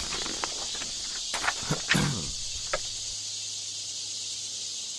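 Steady high hiss and a low hum from a poor-quality public-address broadcast, with a few faint clicks and short background noises between about half a second and three seconds in.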